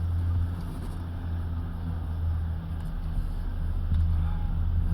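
A car driving, with a steady low engine and road hum.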